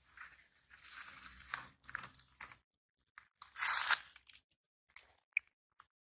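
Crunching and crackling noises in two bursts, the louder one about halfway in, followed by a few short clicks.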